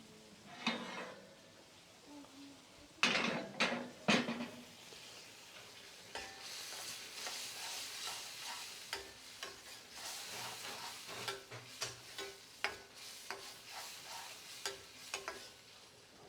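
Chicken balti frying in a pan with a steady sizzle, stirred and scraped with a utensil that clicks against the metal. A few loud knocks come about three to four seconds in.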